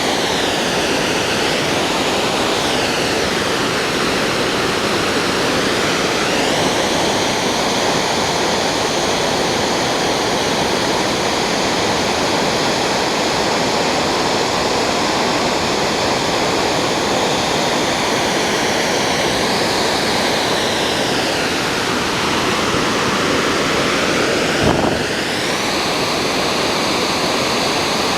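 Waterfall pouring with a loud, steady rush of water, and a single brief knock near the end.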